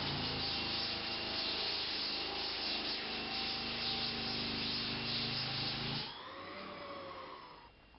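Floor sanding machine running steadily with coarse sandpaper on old pine boards. After about six seconds it gets quieter and fades out near the end.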